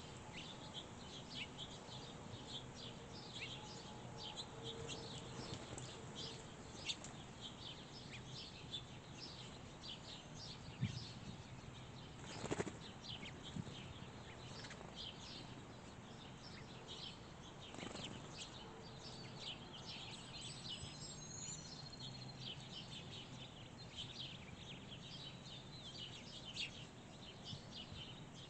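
Small songbirds chirping faintly, a steady scatter of short high calls, with a couple of brief louder sounds about twelve and eighteen seconds in.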